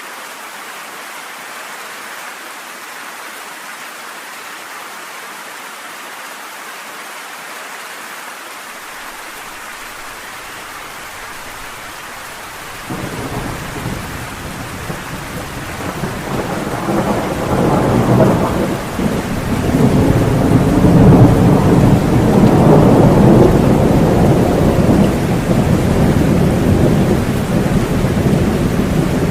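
Steady rain hissing, then thunder breaking about halfway through: a sudden low rumble that swells and rolls on loudly to the end.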